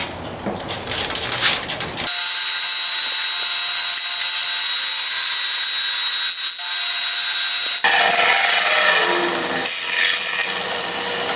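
A power tool runs steadily for about six seconds, starting and stopping abruptly, with knocking and clatter of work before and after it.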